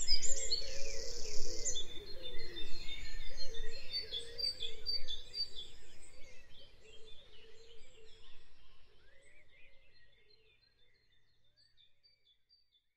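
A chorus of birds chirping and singing, with many short overlapping calls, fading out to silence about ten seconds in.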